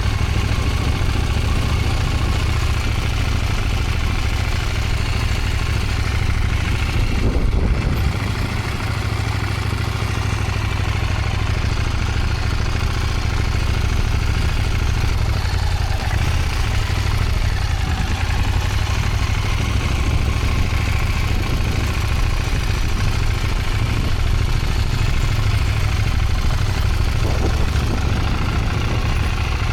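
Motorcycle engine running steadily at low speed, with a low rumble; it gets a little louder briefly about seven to eight seconds in, then drops back.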